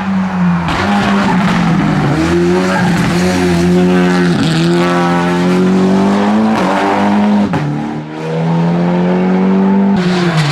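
Hill-climb race car engine running hard at high revs. The pitch climbs and drops several times as it shifts gear and lifts off.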